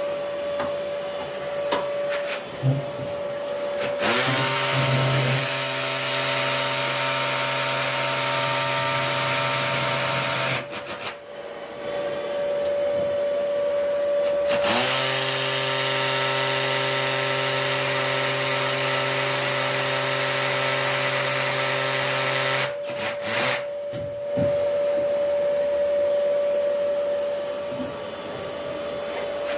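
An electric power tool runs twice, once from about four seconds in for about six seconds and again from about fifteen seconds in for about eight seconds, each time winding up as it starts, over a steady hum.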